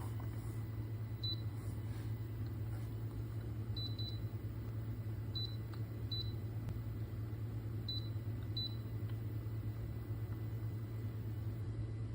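Cool mist humidifier running with a steady low hum, with a few brief, faint high pips scattered through.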